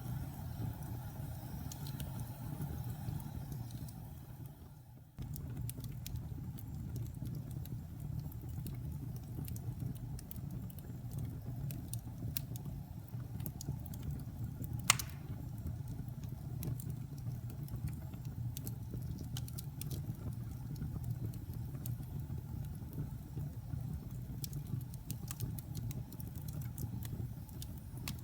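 Wood fire burning in a fireplace: a steady low rumble of flame with scattered small crackles and one sharp, loud pop about fifteen seconds in. The sound fades briefly and cuts back in abruptly about five seconds in.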